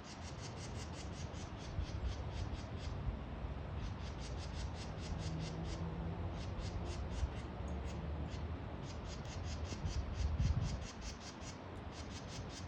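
Small birds giving rapid runs of high chirps, about five a second, in bursts of one to three seconds with short pauses, over a low rumble.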